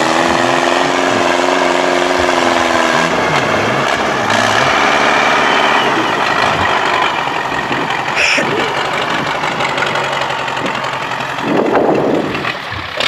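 Tractor engine running: a steady engine tone for about the first three seconds, then a rougher, noisier run with a brief louder burst near the end.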